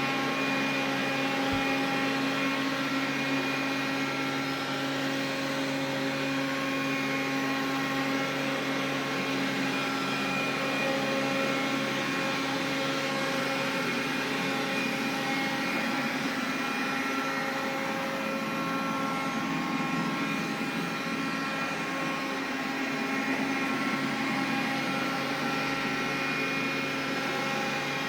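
Xiaomi vacuum cleaner running steadily: an even whir with several steady tones held over it.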